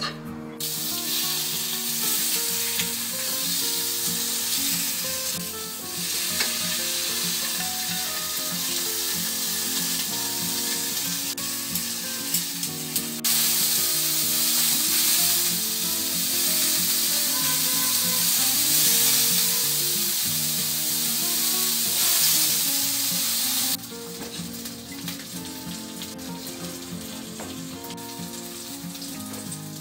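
Pork belly sizzling and frying in a frying pan over a gas burner, a dense steady hiss that drops off sharply near the end. Soft background music with a melody runs underneath.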